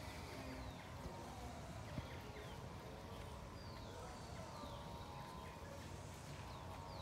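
Faint outdoor ambience: scattered short, high, downward-sliding bird chirps over a low, steady background rumble.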